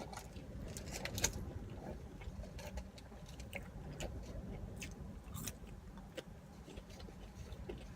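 A person chewing food close to the microphone, with scattered small clicks and crunches.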